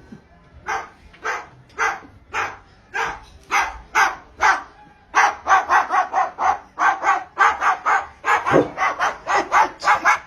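An animal giving repeated short, harsh, bark-like calls, about two a second at first. From about five seconds in the calls come faster and crowd together.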